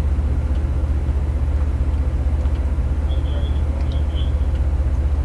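A steady, loud low engine drone with a fine, fast pulse, running without change. Two short high beeps sound about three and four seconds in.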